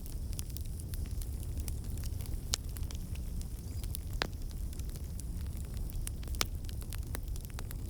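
Wood fire burning in a fireplace: a steady low rumble of flames under scattered crackles, with a few sharper pops standing out.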